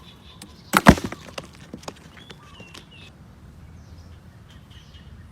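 A sharp, loud double crack just under a second in, followed by a few lighter clicks over the next second; faint short chirps around two and a half to three seconds in.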